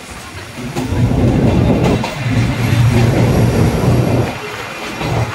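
Open-air carriage of the Sagano Romantic Train running over the rails, a loud rumble and clatter of wheels that gets louder about a second in, echoing inside a brick-lined tunnel.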